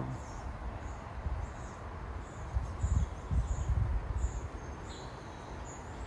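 Birds chirping: a short high chirp repeated at a steady pace, about one and a half times a second, with a low rumbling noise about halfway through.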